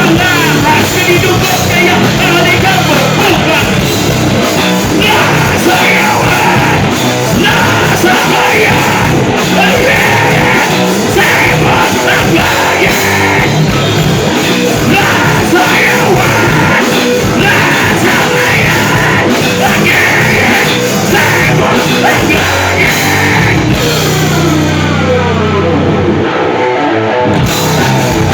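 Loud heavy rock music from a band playing distorted guitars and drums, with shouted, yelled vocals. Near the end the high cymbal sound drops out for a few seconds over a few low held notes, then the full band comes back in.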